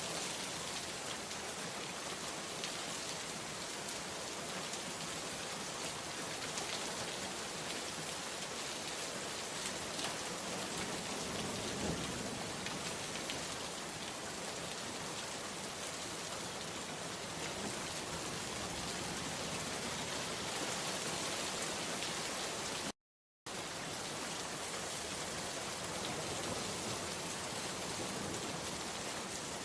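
Steady, heavy rain falling, with the patter of drops on surfaces. The sound cuts out completely for about half a second near the end, then resumes.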